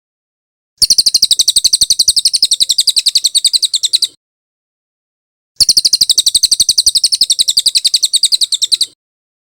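Bird call played from a recording: a fast, even run of high chirps, many a second. It comes in two bursts of about three seconds each, starting just under a second in and again past the middle, with silence between.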